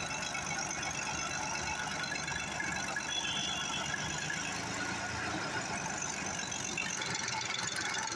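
Diesel engine running steadily at idle with a knocking, clattering note.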